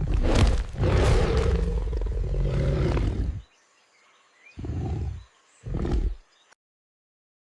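Big cat roaring: one long roar lasting about three and a half seconds, then two short growls about a second apart, after which the sound cuts off to silence.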